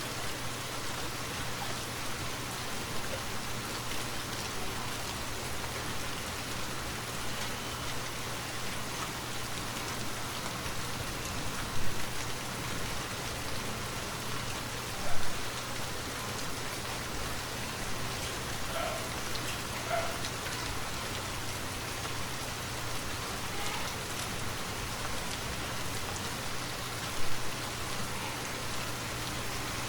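Steady rainfall hissing evenly. Three brief, louder hits stand out: about twelve seconds in, about fifteen seconds in, and near the end.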